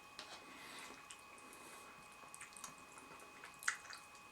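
Faint eating sounds from a pot of instant noodles: quiet wet clicks and squelches, with one sharper click near the end.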